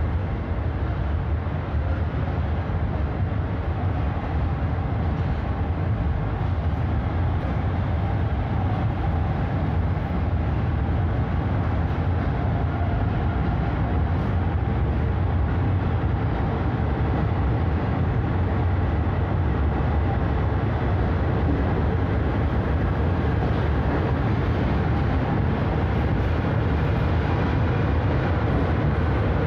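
Passenger train coaches rolling past along a station platform at speed. The wheels and rails make a steady, deep running noise that holds level throughout.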